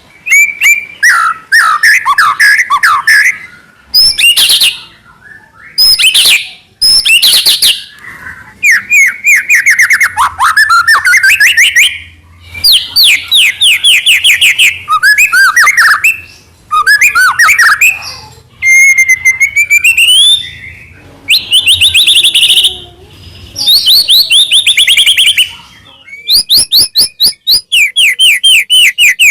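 White-rumped shama (murai batu) singing loudly: a long run of varied phrases of rapid whistles, trills and sweeping notes, broken by short pauses.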